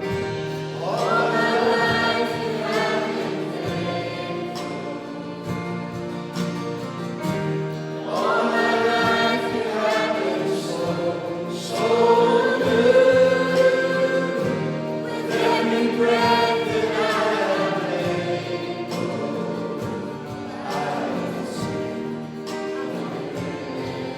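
Congregation singing a worship hymn with instrumental accompaniment, in long phrases with held notes that swell and fade.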